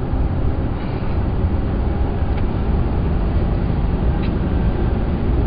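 Steady low rumble of road and engine noise inside a moving pickup truck's cab, picked up by a cell phone's microphone.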